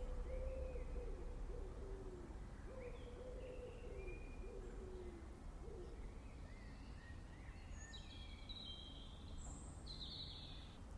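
Outdoor birdsong: a bird gives a series of low hooting or cooing notes, each falling slightly in pitch, through the first half. Small birds chirp higher up throughout, busiest near the end.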